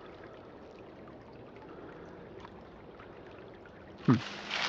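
Creek water trickling and flowing over rocks as a steady, even rush. Near the end comes a short, loud sound that drops sharply in pitch.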